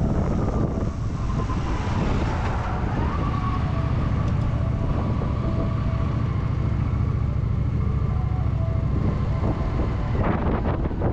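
Honda Shadow VT750's V-twin engine running steadily as the motorcycle rides along, with wind rushing over the microphone.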